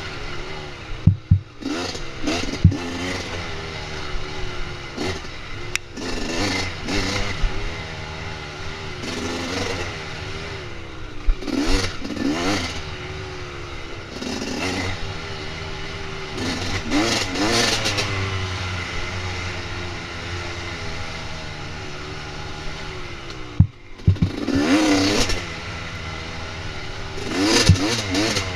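Dirt bike engine running, revving up several times between steadier stretches, with scattered clattering knocks.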